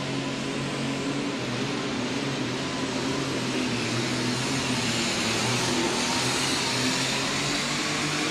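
Minneapolis Moline G1000 alcohol super stock pulling tractor's engine running flat out under load, pulling the sled down the track; a steady, loud drone that slowly builds in loudness.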